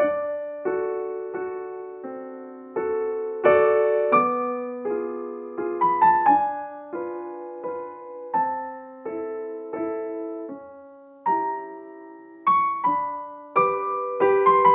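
Slow solo piano music: single notes and small chords struck one after another, each ringing and fading away.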